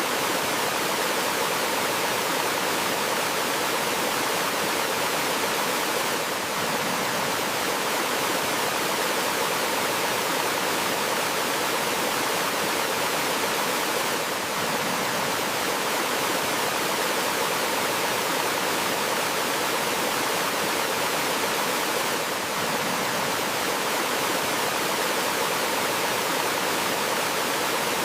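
Gentle waterfall: a steady, unbroken rush of flowing water.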